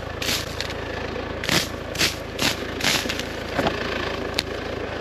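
Tractor engine idling steadily, with a run of short scuffing or crunching sounds over it in the first three seconds.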